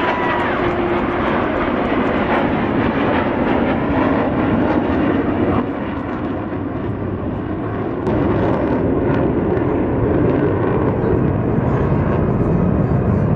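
Jet aircraft engine roar as a plane flies a display pass. The roar eases for a couple of seconds about halfway through, then swells again.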